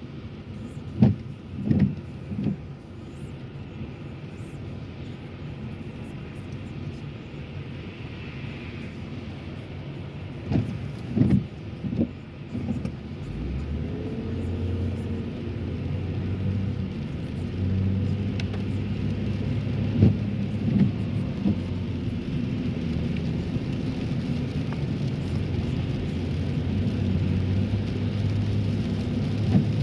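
Car cabin during driving on a wet road: steady low engine and tyre rumble with a hiss, broken by several short thumps. About halfway through the rumble grows louder and a steady low hum sets in and holds.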